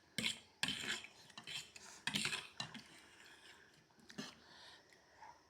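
Spoons clinking and scraping against plates during a meal: a series of short, separate sounds, some sharp and some longer, at a low level.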